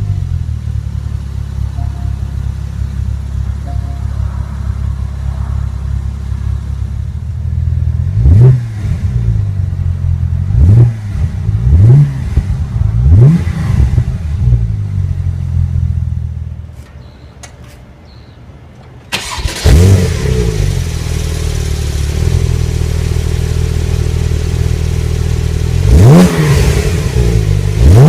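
2015 Porsche 911 Turbo's 3.8-litre twin-turbo flat-six idling just after start-up, with four quick throttle blips about two-thirds of the way through the first half. It goes much quieter for a couple of seconds, then runs again with a rev flare and later two more blips.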